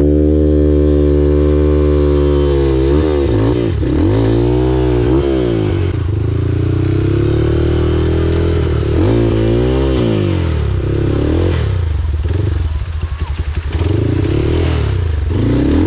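Trail dirt bike engine running at high revs, its pitch dropping and climbing several times as the throttle is worked; after about ten seconds it turns choppy and uneven.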